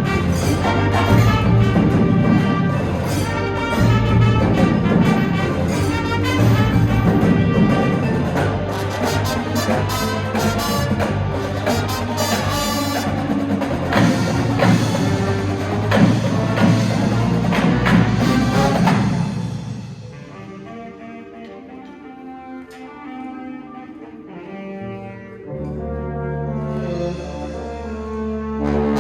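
Indoor marching band of brass, woodwinds and percussion playing a loud passage of brass chords with sharp drum hits. About two-thirds through it drops suddenly to soft held chords, then low brass swells back in near the end.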